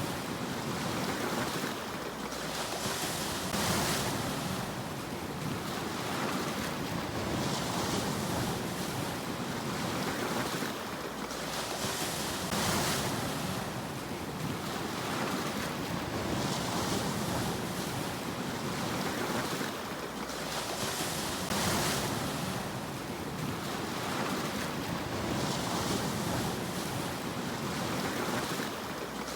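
Sea waves washing in and breaking on the shore, a steady rush that swells about every four to five seconds as each wave comes in.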